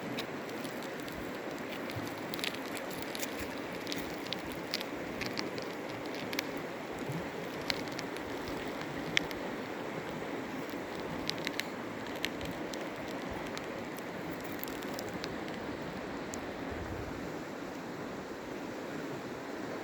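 Waterfall: a steady rush of falling water, with scattered sharp ticks and splashes over it until about three-quarters of the way through.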